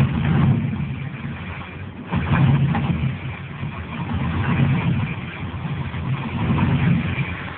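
The 5.7-litre LS1 V8 of a 2000 Pontiac WS6 running just after start-up and being revved in about four swells. It is running with the knock it has been started to show, its cylinders loaded with fuel from long cranking with the coils unplugged, which the owner expects to clear.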